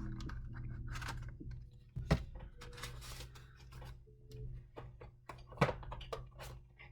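Paper and card ephemera being handled and shuffled through, with soft rustles, small clicks and two sharper knocks about two seconds in and again near the end, over faint steady background music.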